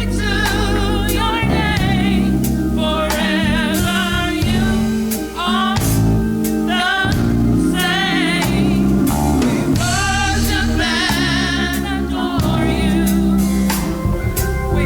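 Gospel singing with instrumental accompaniment: a voice sung with wide vibrato over a steady bass line and regular drum hits.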